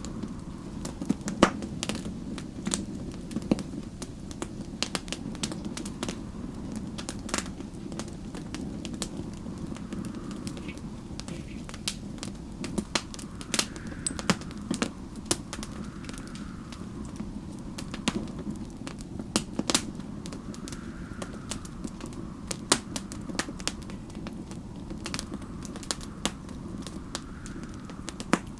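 Wood fire crackling in a fireplace: sharp pops and snaps at irregular intervals over a steady low rumble. A faint wind whistles behind it, rising and falling every few seconds.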